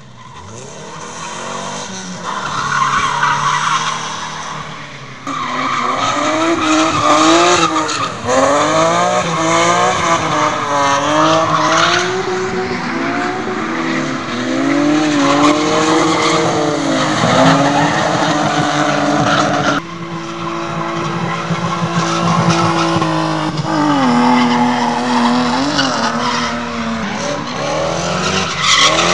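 Drift cars' engines revving up and down repeatedly while their tyres squeal and skid in long slides. The sound changes abruptly a few times, about five, eight and twenty seconds in.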